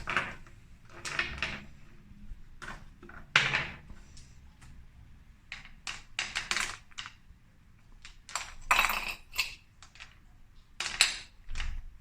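Small beach pebbles clinking against each other and the pot as they are set in by hand: irregular separate clicks and knocks, some in quick clusters.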